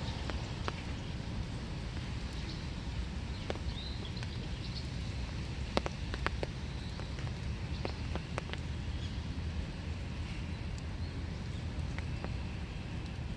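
Rain falling in a small wood: a steady low hiss with scattered sharp taps of drops landing, and a few faint short bird chirps.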